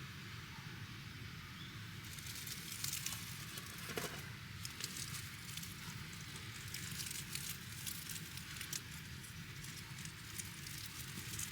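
Wood campfire crackling, with irregular sharp pops and snaps starting about two seconds in.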